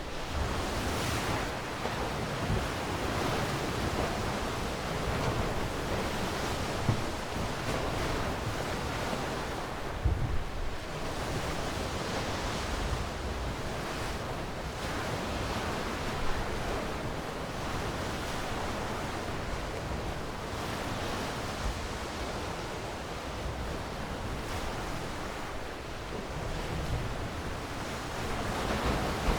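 Ocean waves breaking and washing in steadily, the rush of surf swelling and easing, with a few brief low thumps of wind on the microphone.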